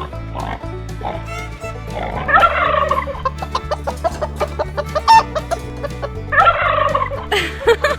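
Background music with a steady low bass loop, over which a domestic fowl calls twice, each call about a second long, at about two and six seconds in.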